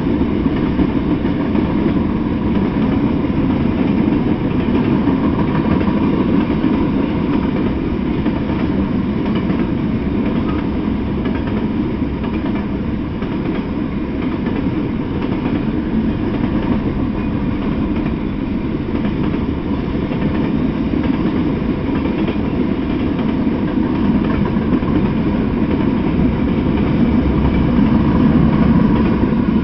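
Freight train cars, tank cars and covered hoppers among them, rolling steadily past on the rails: a continuous rumble and rattle of wheels and cars.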